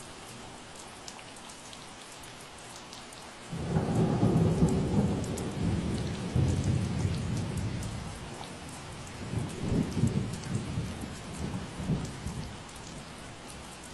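Steady rain with separate drops ticking, and a roll of thunder that breaks in sharply about three and a half seconds in, rumbles on, swells again later and dies away near the end.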